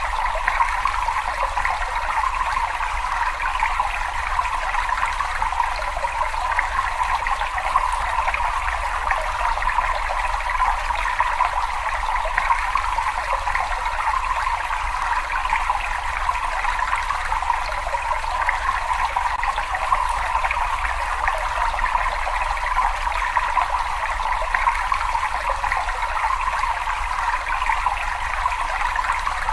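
Water trickling and running steadily in a cave: an even, continuous rush with no separate drips or splashes standing out.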